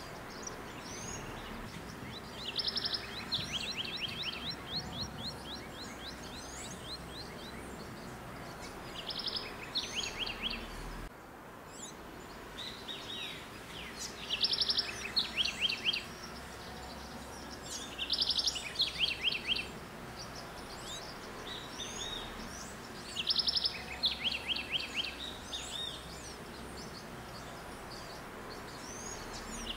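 Songbirds calling: short bursts of rapid, stuttering chatter repeated every four or five seconds over a steady outdoor background hiss.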